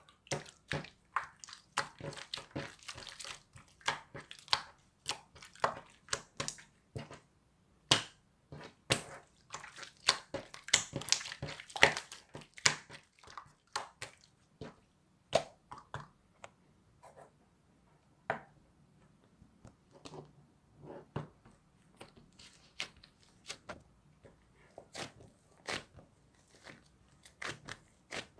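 Slime being squeezed, poked and stretched by hand, giving an irregular run of sharp clicks and small pops from air caught in the slime. The pops come thickest in two spells, about two seconds in and again around ten seconds in, then thin out to scattered ones.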